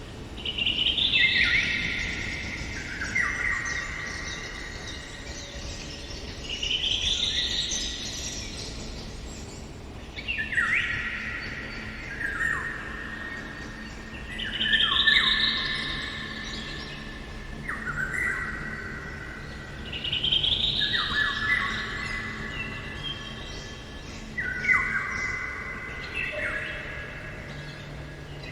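A songbird singing in a forest, repeating a song phrase about every four to five seconds, each phrase a quick run of notes that steps down from high to lower pitch.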